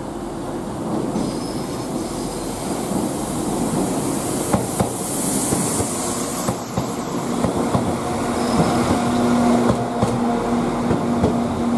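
A train running through the station, its wheels clicking over rail joints and pointwork, growing gradually louder. A steady low hum joins about two-thirds of the way through.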